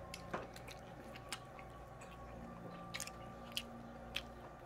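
A person chewing food close to the microphone, with a dozen or so short, sharp mouth clicks and smacks.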